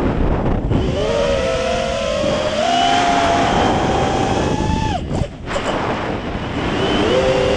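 A 5-inch racing quadcopter's motors and propellers whining, the pitch rising and falling with throttle. The whine drops away suddenly about five seconds in, then climbs again near the end, over steady wind noise.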